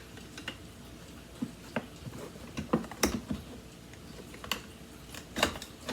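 Scattered light clicks and taps of hard plastic as the parts of a Hoover ONEPWR cordless vacuum are handled and its handle is pushed into place.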